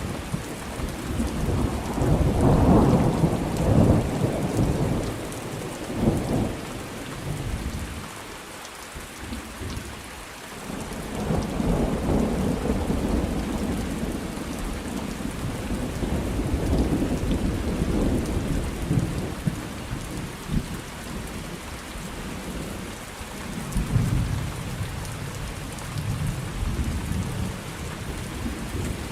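Thunderstorm: steady rain with thunder rumbling in several rolling swells, the loudest a few seconds in, with more rolls in the middle and near the end.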